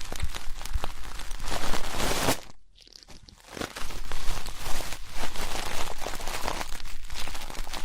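Ear-cleaning ASMR: an ear pick scratching and scraping in a microphone's ear, a dense crackly rustle full of small clicks. It stops for about a second partway through, then resumes.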